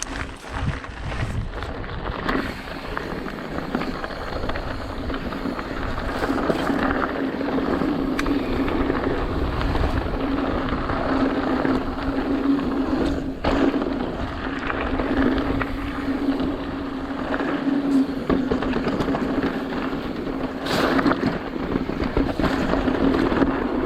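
Mountain bike riding fast down a dirt and rock trail: continuous tyre and rolling noise, a steady hum, and scattered sharp knocks and rattles from the bike hitting bumps.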